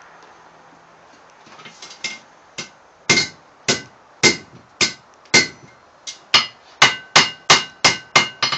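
Blacksmith's hammer striking hot steel rod on an anvil while forging the hook of a drive hook, each blow leaving a short ring. It starts with a few light taps, then about a dozen heavy blows that quicken to about three a second near the end.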